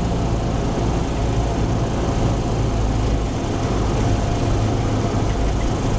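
Cessna 172's four-cylinder piston engine and propeller droning steadily in the cabin on final approach, with power still on before the flare.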